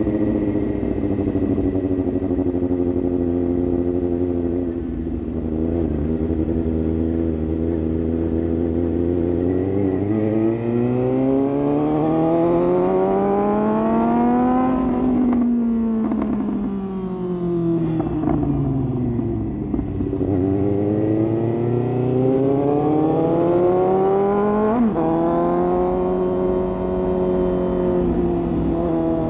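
Suzuki GSX-S750's inline-four engine through an aftermarket sport exhaust while riding. It runs at a steady cruise, then revs up in one long rising pull lasting about five seconds, falls away as the throttle closes, and rises again with a sharp blip before settling to a steady run.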